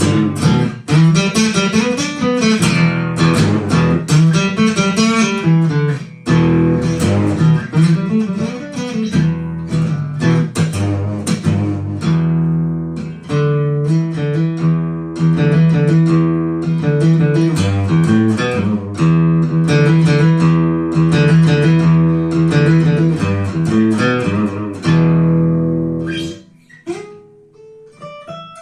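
Yamaha FGX730 acoustic-electric guitar strummed in steady rhythmic chords. The strumming stops about 26 seconds in, and a few single notes are left ringing.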